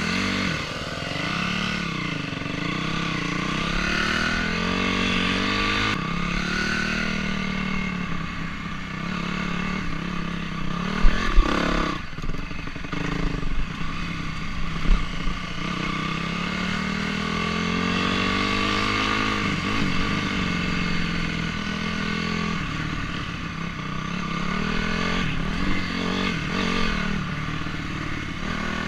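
Honda CRF250R four-stroke single-cylinder dirt bike engine being ridden, its pitch rising and falling over and over with throttle and gear changes. There are a few sharp thumps near the middle.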